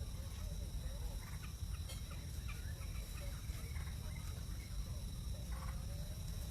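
Birds calling in short, scattered chirps and clucks over a steady low rumble.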